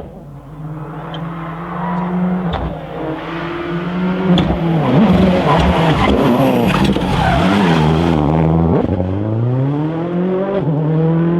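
Rally car engine driven hard at speed, revs climbing and dropping in steps through gear changes, with a few sharp pops. It is loudest about midway, then revs rise steadily again as it accelerates through the gears.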